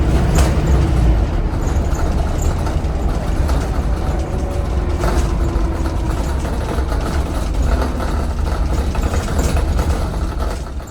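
Alexander Dennis Enviro 400 hybrid bus with a 4.5-litre Cummins ISBe diesel, running with a steady low rumble and a few light rattles.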